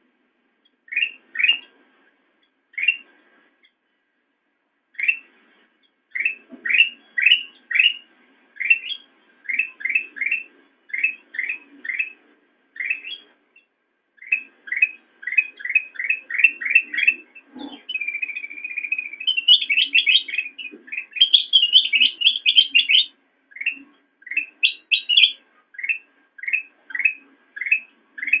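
Kutilang emas bulbul singing: a long string of short, rising chirps, several a second with brief pauses between runs. About two-thirds of the way through comes a short buzzy trill, then a louder, higher run of notes.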